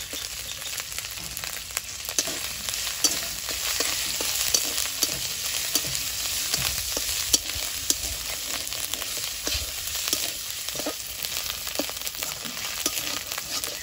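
Chopped onion frying in hot oil in a karahi, sizzling steadily, with a metal spatula scraping and clicking against the pan as it is stirred.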